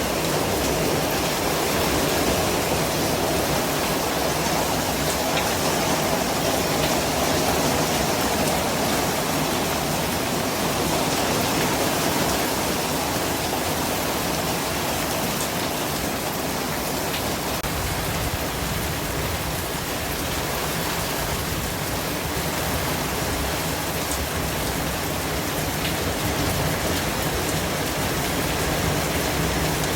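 Steady white noise: an even, unbroken hiss with a few faint ticks scattered through it.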